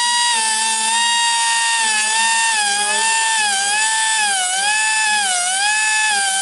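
High-speed rotary grinding tool sharpening a sawmill band blade: a steady high whine whose pitch sags and recovers repeatedly as the cutter is pressed onto the blade, the sags deepening in the second half.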